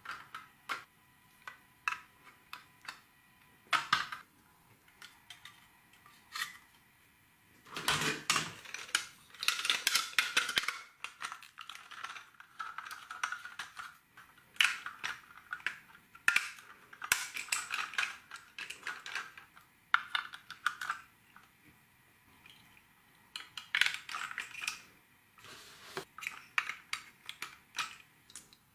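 Small plastic LEGO pieces clicking and clattering as they are handled and snapped together: single sharp clicks, with spells of dense rattling about a third of the way in, in the middle and near the end.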